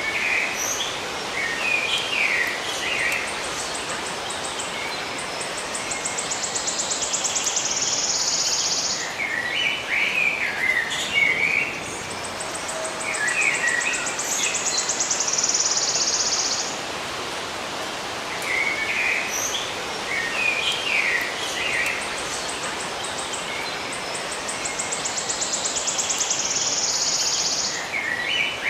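Songbirds chirping in short clusters of calls, with a high, pulsing trill of about three seconds that comes back three times, over a steady background hiss.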